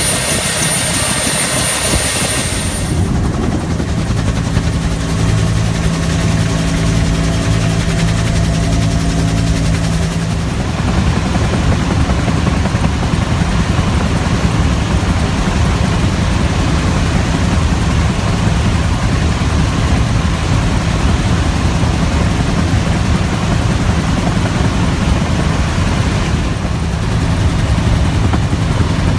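Bell UH-1 Huey helicopter's turboshaft engine and rotor running loud and steady. A high-pitched turbine whine drops away about three seconds in, and a low steady drone carries on under a dense rushing noise.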